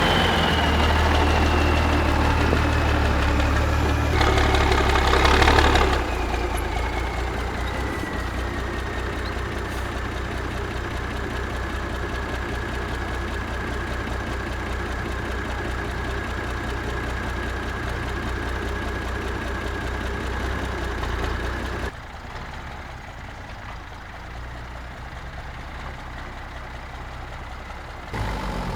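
Liaz 4x4 truck's diesel engine revving, then running steadily near idle, with a high whine that slides down in pitch over the first several seconds and then holds. It is loudest in the first six seconds and drops quieter for the last several seconds.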